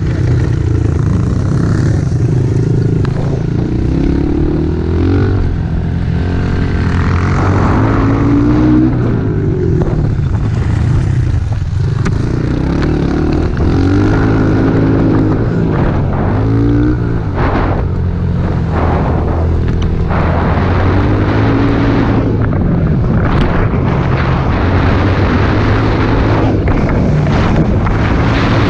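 Small four-stroke pit bike engine being ridden hard, its revs climbing and dropping again and again as the throttle is worked and gears change.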